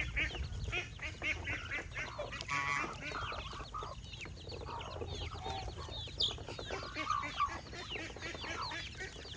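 A flock of domestic poultry calling: a quick run of repeated calls at first, then many overlapping high peeps and clucks, with one louder call about two and a half seconds in.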